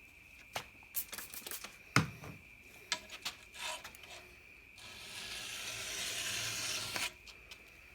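Light clicks and knocks of metal tools being handled, one louder knock about two seconds in, then one steady scraping stroke of about two seconds across the steel bed knife of a reel mower as its edge is dressed by hand.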